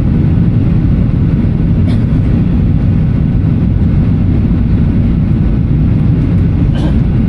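Steady low rumble of cabin noise inside a Boeing 737-800 in flight, the airflow and engine noise heard from a window seat.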